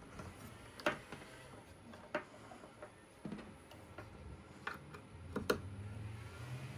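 Sharp plastic clicks, about five, a second or so apart, as power plugs are pushed into Bitaxe Gamma bitcoin miners. Near the end a low hum starts and climbs in pitch in steps, as the powered miners' fans spin up.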